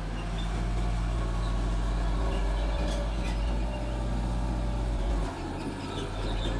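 Diesel engine of a small Mitsubishi bulldozer running steadily, with a brief dip in level about five seconds in before it picks up again.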